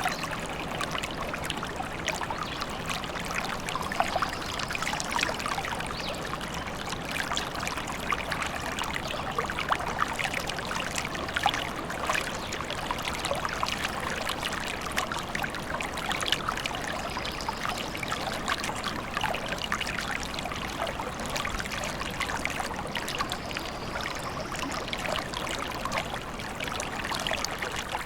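A small stream trickling and splashing steadily, a continuous babble of running water.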